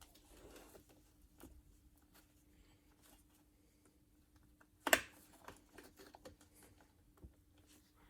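Faint, scattered small clicks and light taps of handling, with one sharp clack about five seconds in, over a faint steady hum.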